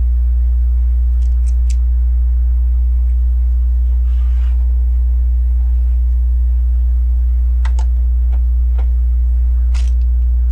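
A steady low hum throughout, with a few light clicks of plastic LEGO pieces being handled: a small cluster about a second in and a few more near the end.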